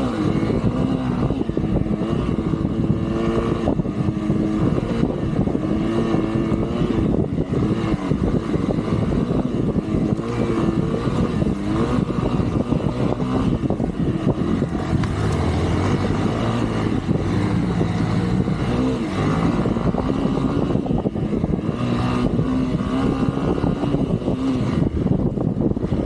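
Off-road vehicle engine running loud over a rough trail, its pitch rising and falling as it is revved and eased off, with a rough rumble of wind and terrain underneath.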